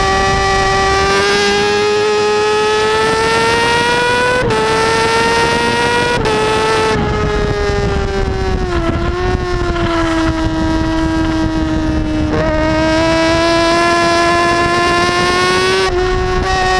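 Kawasaki ZX-6R's inline-four engine running hard at high revs over wind rush. The pitch climbs, with two brief dips about four and six seconds in, then falls about seven to nine seconds in, holds steady, and climbs again near the end with another brief dip.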